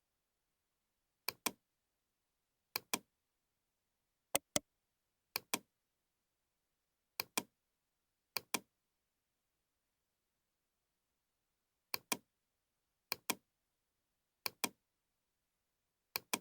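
Computer mouse button double-clicked again and again: about ten quick pairs of sharp clicks, one pair every second or two, with a longer gap about halfway through.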